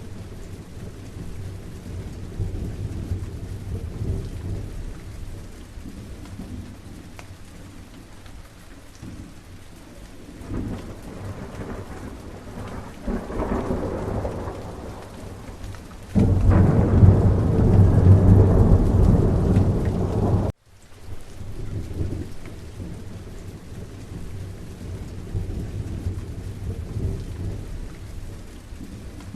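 Steady rain with rolling thunder, the rumbles swelling from about ten seconds in. A much louder thunder rumble starts suddenly about sixteen seconds in and cuts off abruptly a few seconds later, then the rain goes on.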